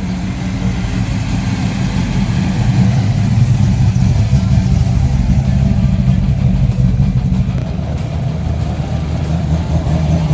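Car engine running close by, a steady low rumble, with a slight rise in revs near the end.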